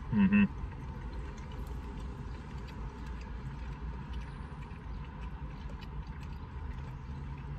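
Faint clicks of chewing and plastic forks over a steady low hum of the car cabin. A brief "mm" comes at the very start.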